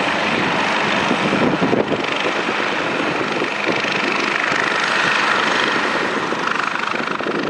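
Air ambulance helicopter running, a loud, steady rush of rotor and turbine noise.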